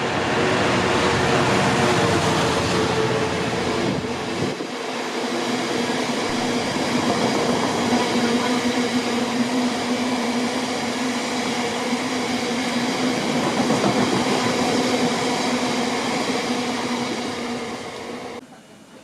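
A train running past at speed: loud, steady rolling and rail noise with a steady whine over it. The sound changes abruptly about four and a half seconds in and drops away near the end.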